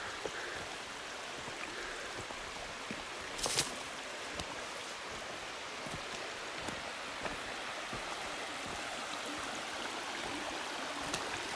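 Steady rush of water from a mountain stream, with a brief knock about three and a half seconds in.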